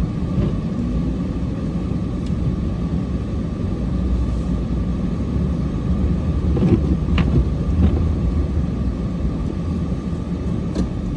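Cummins diesel truck engine running with a steady low rumble, with a couple of short knocks about seven seconds in.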